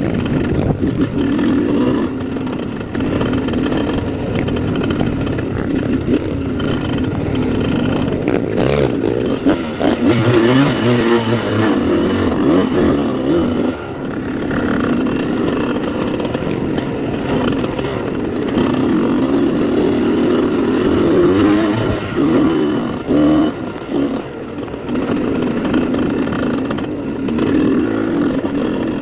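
Dirt bike engine running and revving continuously, the pitch rising and falling with the throttle.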